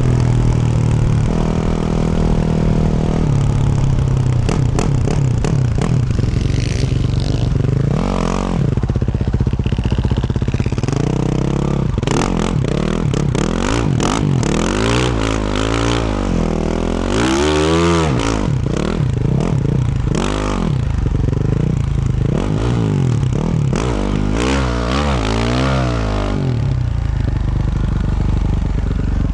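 2024 Yamaha YZ450F's single-cylinder four-stroke engine through a Yoshimura RS-12 exhaust, revving up and falling back again and again as the bike is ridden. Scattered clattering knocks come from the bike over the ground, mostly in the first half.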